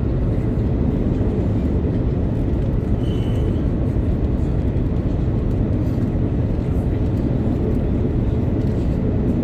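Steady low rumble of an Airbus A330-900neo heard from inside the passenger cabin: its Rolls-Royce Trent 7000 engines and airflow noise. A short high tone sounds briefly about three seconds in.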